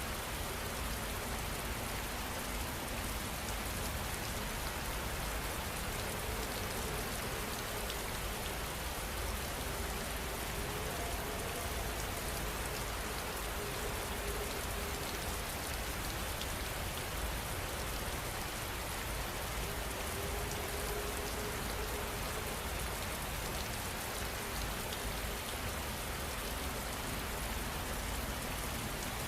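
Heavy rain falling steadily, an even hiss of many drops with no breaks or changes.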